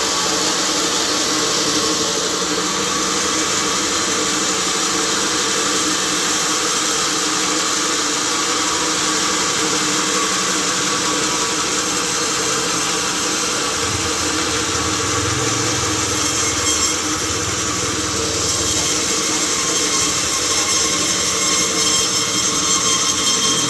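Sawmill machinery running steadily: a continuous mechanical hum and hiss, with a low rumble swelling for a few seconds in the second half.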